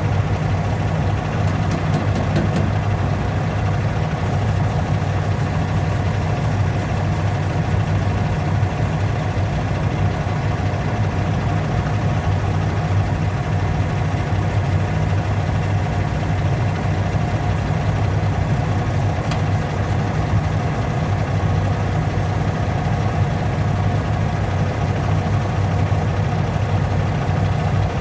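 A steady, unchanging low mechanical hum, like a running motor.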